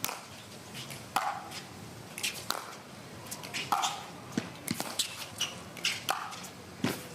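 Pickleball rally: paddles striking the plastic ball back and forth, a sharp pop about every second and a quarter, each with a short ringing tone.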